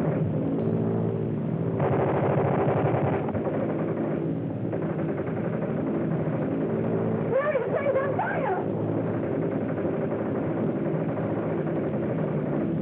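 Propeller airplane engine droning steadily in flight.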